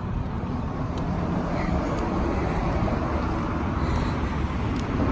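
Steady noise of road traffic, with wind on the phone's microphone adding a low rumble.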